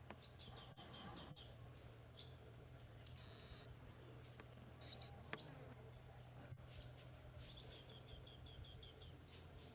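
Faint bird calls: two quick runs of short high chirps, one near the start and one near the end, with single short rising calls in between, over a steady low hum.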